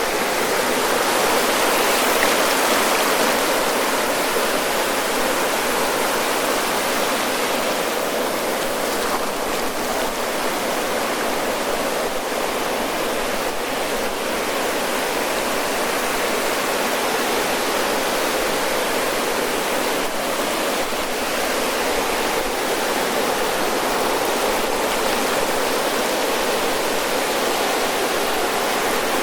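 Ocean waves breaking and washing up the shore: a steady rush of surf that swells slightly about two seconds in.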